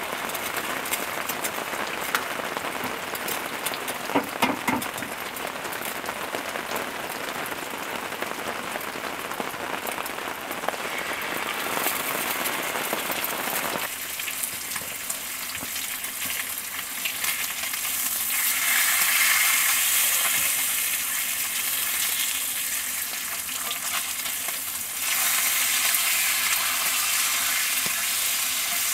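Eggs and bacon frying in a cast iron skillet: a steady sizzle, with a few sharp knocks in the first seconds as eggs are cracked into the pan. In the second half the sizzle turns brighter and louder, swelling twice as the bacon fries.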